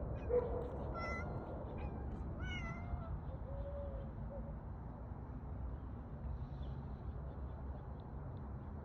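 Domestic cat meowing, several short meows in the first four seconds, over a steady low background rumble.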